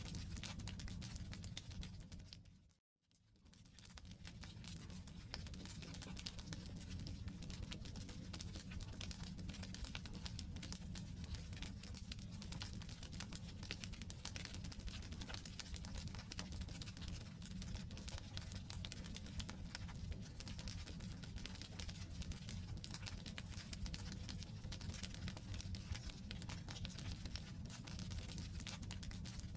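Wood campfire burning: dense, irregular crackling and popping of logs over a steady low rumble of the flames. The sound cuts out completely about three seconds in and then fades back in.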